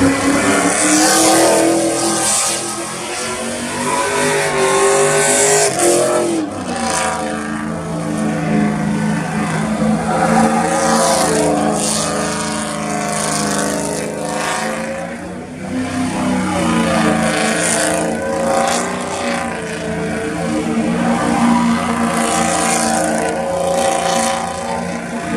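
Pickup truck engines revving and accelerating, their pitch climbing and falling again several times.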